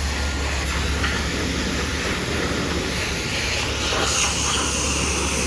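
A garbage truck passes close by: a steady, loud hiss over a low rumble, with a faint high whine coming in about four seconds in.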